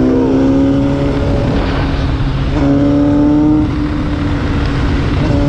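Honda CBR1000 sportbike's inline-four engine running under way, with a steady engine note that steps up in pitch about halfway through, over low wind rumble on the microphone.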